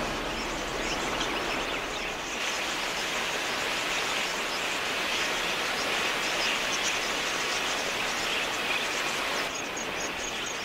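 A huge flock of wild budgerigars: a dense, steady wash of many chirping calls and whirring wings. Near the end it cuts to a quieter ambience with a fast, even, high-pitched ticking.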